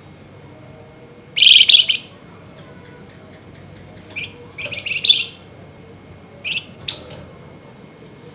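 Caged flamboyan songbird giving loud, sharp, high-pitched chattering bursts ('nyerecet'). There are about four bursts a second or so apart, the longest near the start, over a steady faint background hiss.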